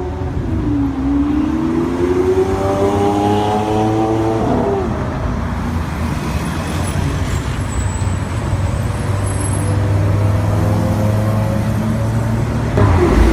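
Supercar engines pulling away in street traffic: one engine rises steadily in pitch for about three seconds, then drops out, leaving a lower, steady engine rumble. Near the end a sudden, louder burst of engine noise comes in.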